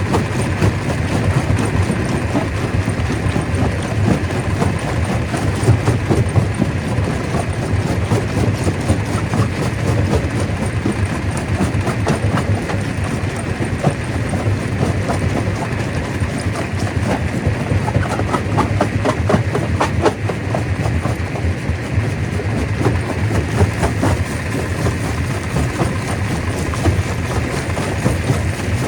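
Stone crusher running and breaking rock: a steady low machine drone under a dense, irregular clatter of stone being crushed.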